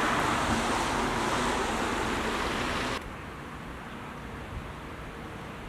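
Steady rushing outdoor road noise of traffic and wind, with no distinct engine note. About three seconds in it drops abruptly to a quieter, duller hum.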